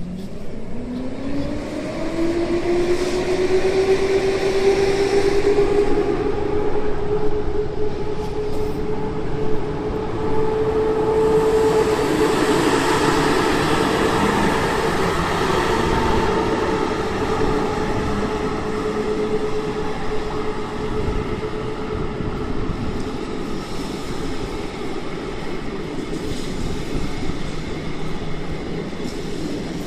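Electric locomotive hauling a passenger train through a station: its whine rises in pitch over the first few seconds and then holds steady, with a swell of rumbling train noise around the middle.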